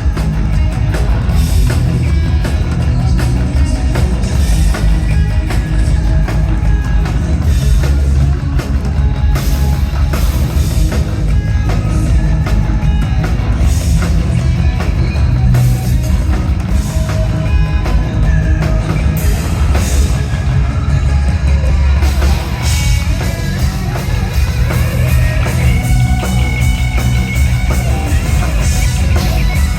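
Live hard rock band playing loud, with distorted electric guitar, a heavy drum kit and bass.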